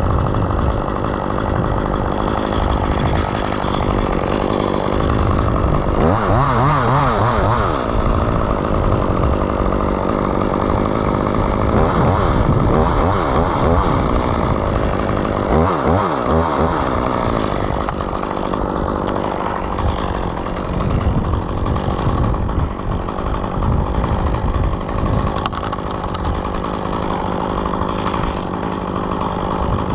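Chainsaw running and cutting, its engine pitch dipping and recovering several times as the chain loads up in the wood.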